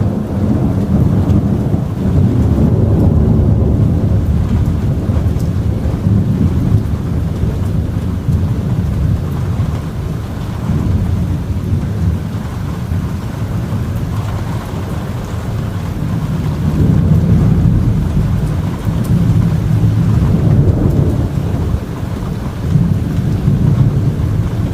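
Continuous rolling thunder from a severe, lightning-heavy thunderstorm, a low rumble that swells louder several times, with rain falling throughout.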